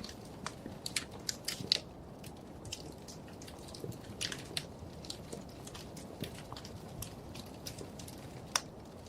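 Wood fire crackling: irregular sharp snaps and pops over a steady low rumble of burning logs, with a couple of louder snaps about two seconds in and near the end.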